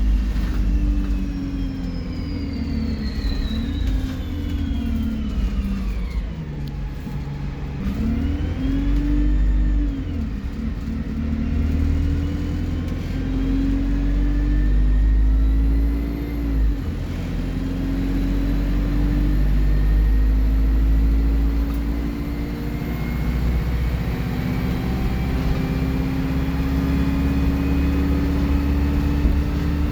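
Alexander Dennis Enviro 200 bus's diesel engine and turbocharger under way. The engine note drops and picks up again several times as the bus slows and accelerates. A turbo whistle falls in pitch during the first ten seconds, and a high thin whistle climbs steadily through the second half.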